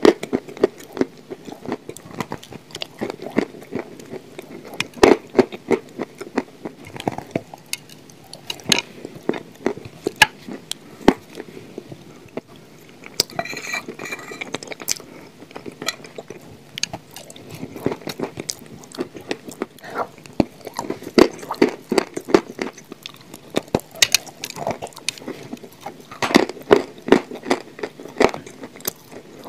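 Close-miked chewing of a mouthful of chalk and clay with cream: a dense run of soft crunches and wet mouth sounds.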